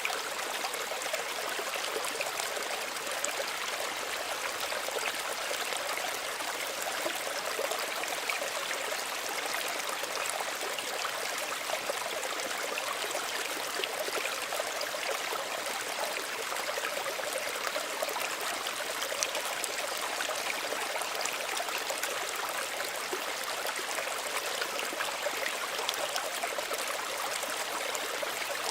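Small stream running and trickling over stones, a steady, gentle burble with no change throughout.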